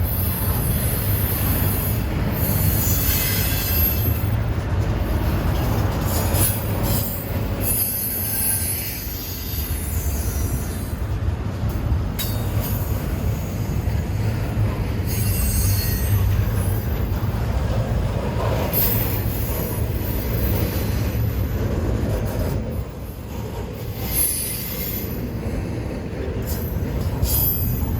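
A train rolling past with a steady low rumble of cars on the rails, and high-pitched wheel squeal that comes and goes.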